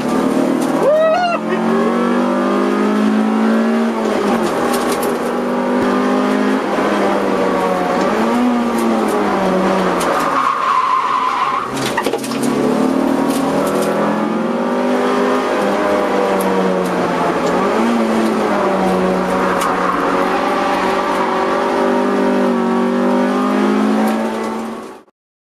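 Honda CR-X EE8's 1.6-litre VTEC four-cylinder engine heard from inside the cabin under hard driving, its revs climbing and dropping again and again through gear changes and braking, with tyres squealing briefly in corners. It fades out near the end.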